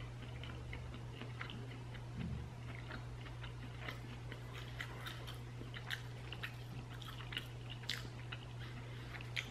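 A person chewing a bite of a singed, breaded chicken nugget: faint, irregular crunching and small mouth clicks throughout, over a low steady hum.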